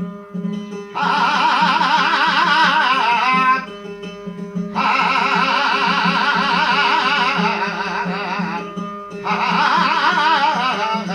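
Instrumental interlude of a Marathi abhang. A high melody line with quick vibrato plays over a steady low drone, in three phrases with short breaks about four and nine seconds in.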